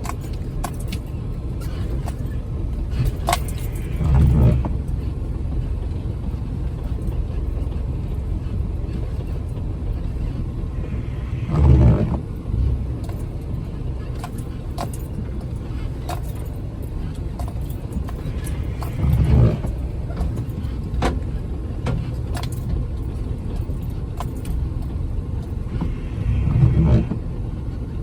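Jeep Wrangler running low and steady while crawling a snowy trail, heard from inside the cab. The rumble swells louder four times, about every seven or eight seconds. Light clicks and rattles sound throughout.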